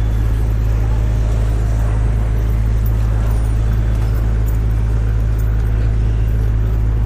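City street ambience: a loud, steady low rumble of traffic under an even hiss, unchanging throughout.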